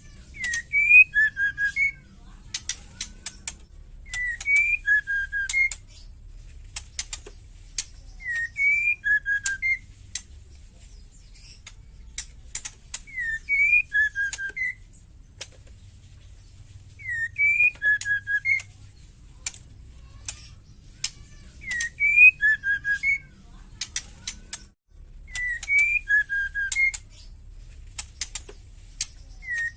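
Female white-rumped shama calling: the same short whistled phrase repeated about every four seconds, with sharp, fast ticking clicks between the phrases.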